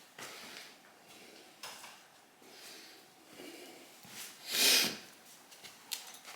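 Faint handling noises of work on the motorcycle, with one short, loud huff of breath a little over four and a half seconds in and a few light clicks near the end.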